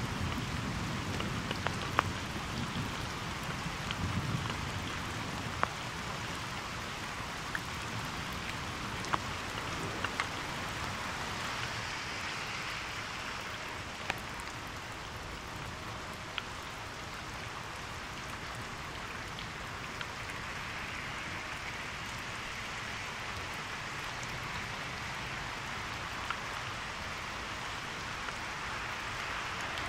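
Steady rain falling, with scattered sharp raindrop ticks close to the microphone. A low thunder rumble dies away in the first few seconds.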